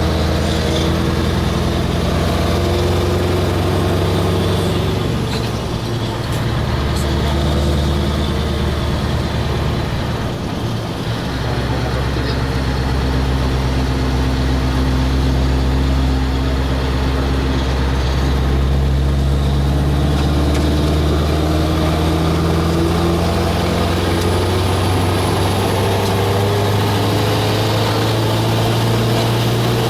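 Scania 4-series truck's V8 engine running, its pitch shifting several times, with a slow rise in engine speed in the second half.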